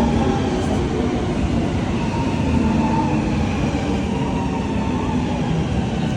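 Helsinki Metro train running: a steady rumble of wheels on rails with a faint motor whine that drifts slightly in pitch.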